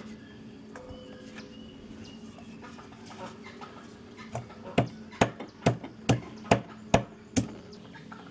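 Chopping: seven sharp, evenly spaced strokes about two a second, starting a little past halfway, over a faint steady hum.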